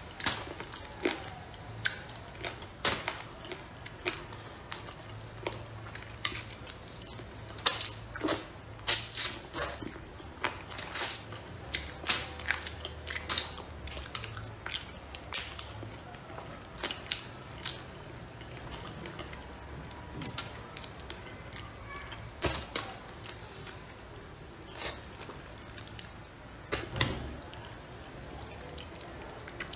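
Close eating sounds of a person chewing spicy braised crucian carp, with many irregular sharp clicks and smacks, thickest from about a quarter to halfway through.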